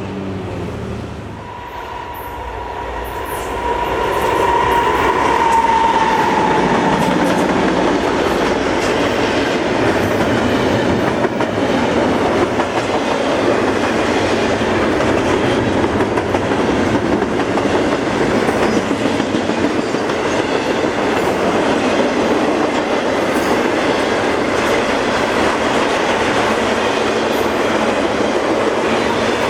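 Freight train cars rolling past at speed, with a steady rumble of wheels on rail and clicking over the rail joints. A single high, slightly falling tone rings over it for the first few seconds.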